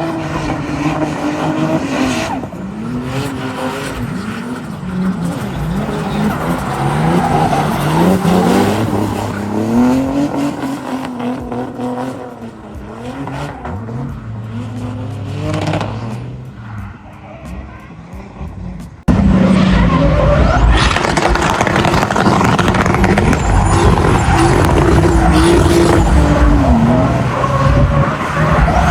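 Drift cars' engines revving up and down as they slide, with tyres squealing. About two-thirds of the way through the sound jumps suddenly louder and closer.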